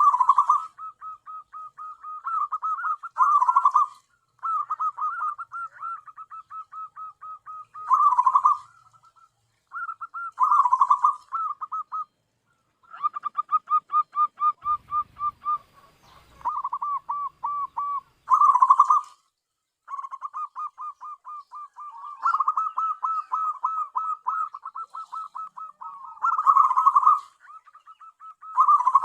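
Zebra dove (perkutut) cooing: phrase after phrase of rapid, stuttering coo notes, each run ending in a louder rolling burst, repeating every few seconds.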